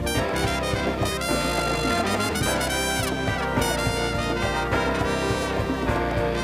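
Live jazz band playing, with a brass horn line over a steady drum beat and bass.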